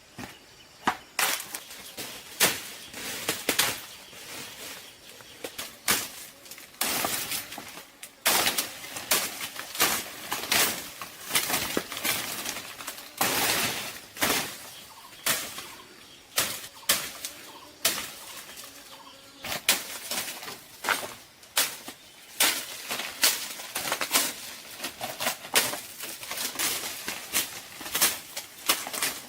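A busy run of irregular rustles, scrapes and sharp knocks, several a second.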